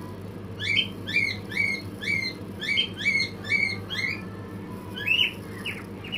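A bird chirping repeatedly, about two or three short rising chirps a second, then a few sharper, shorter chirps near the end, over a steady low hum.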